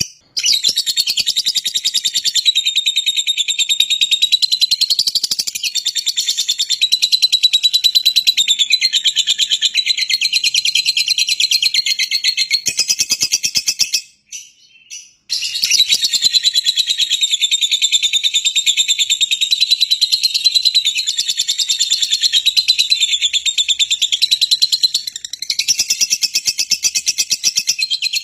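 Songbird singing a fast, continuous high-pitched trill of rapidly repeated notes, breaking off for about a second roughly halfway through, then resuming.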